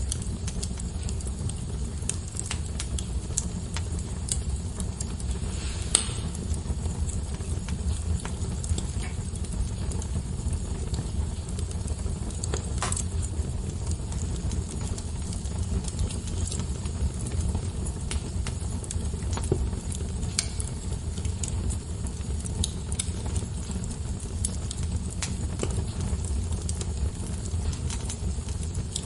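Fireplace fire crackling, with many small snaps over a steady low rumble of the flames. Sharper pops come about six seconds in and again around thirteen seconds.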